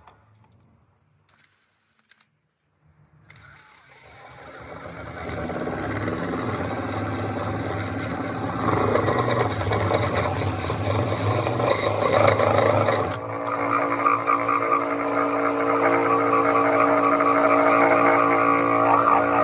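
A motor running steadily, building up over a few seconds after a near-silent start and changing suddenly to a steadier, more even pitch about thirteen seconds in.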